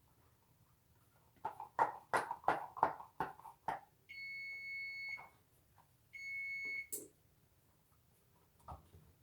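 Oven timer sounding two long, steady electronic beeps a couple of seconds apart: the bake time is up. Just before them comes a quick run of kitchen clicks and clatter.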